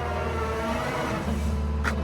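Skid steer's diesel engine running steadily, pulling harder about a second in, with a sharp metal clank near the end.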